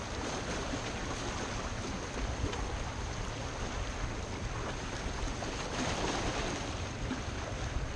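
Steady rush of waves with wind rumbling on the microphone, swelling slightly about six seconds in.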